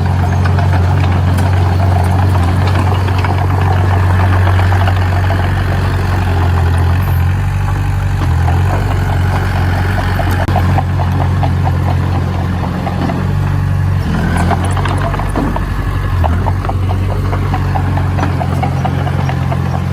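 Diesel engine of heavy construction machinery running steadily at a low, even pitch, with a fast rattle over it.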